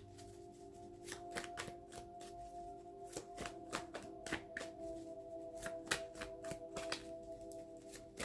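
A deck of tarot cards being shuffled by hand: an irregular run of quick card flicks and snaps, several a second. Under it, soft background music of held tones.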